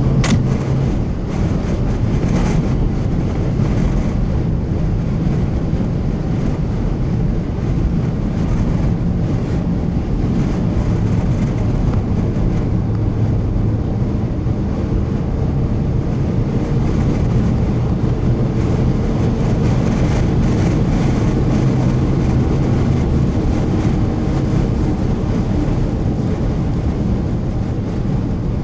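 Steady low rumble and hum of a car, with wind noise mixed in.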